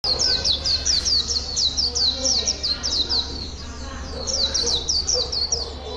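A bird calling in a fast series of short, high chirps, each sliding down in pitch, about four or five a second, a little softer after the first three seconds. A steady low hum lies underneath.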